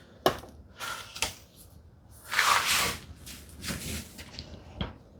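Wooden workpieces being handled and fitted together at a bench: a few light wooden knocks and clicks, with a longer sliding scrape of wood on wood about two and a half seconds in.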